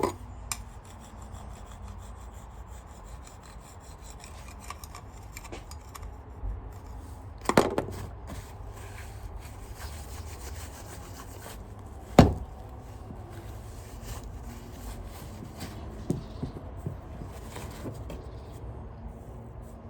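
Steady rubbing and scraping as a vacuum cleaner's brush roll is scrubbed clean of grease and grime, broken by two sharp knocks about halfway through, the second the loudest.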